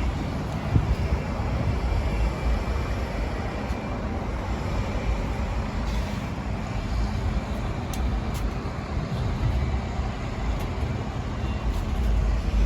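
Steady low rumble of vehicle and street traffic noise, with a few faint clicks.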